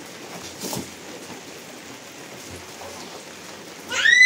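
Steady rain, with a faint short knock about a second in. Near the end a baby starts a loud, high wail.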